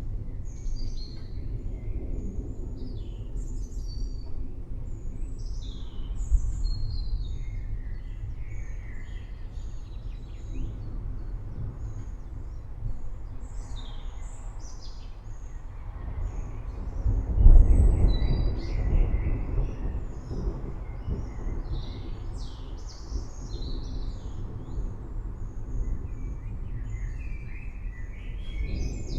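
Songbirds chirping and calling over the steady low rumble of a distant thunderstorm, with a louder roll of thunder a little past halfway that slowly fades.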